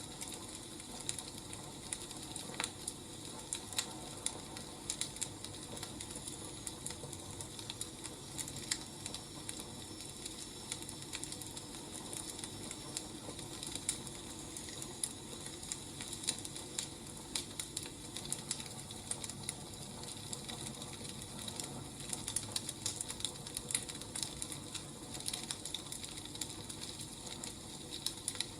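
Wood fire crackling, with irregular snaps and pops over a steady low hiss.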